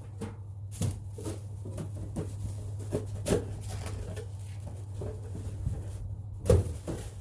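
Scattered light knocks and clicks of small parts being handled and set down, the loudest about six and a half seconds in, over a steady low hum.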